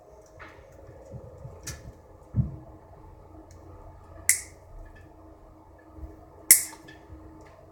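Handling noise from a furnace blower being worked free: a dull thump about two and a half seconds in, then two sharp metallic clicks, the second near the end and the loudest, with small ticks in between.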